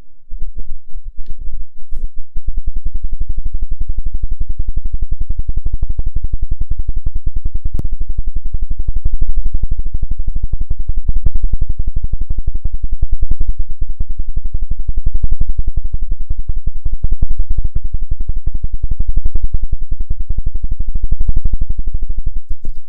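Rapid, even low-pitched chopping pulse close on the microphone, an ASMR helicopter-rotor sound, starting about two seconds in and swelling and easing in loudness every couple of seconds.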